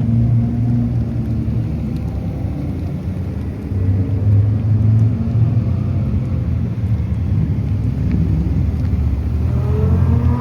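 High-performance sports car engines running as the cars pull out at low speed, with a steady low rumble. Near the end one engine revs up, its pitch rising.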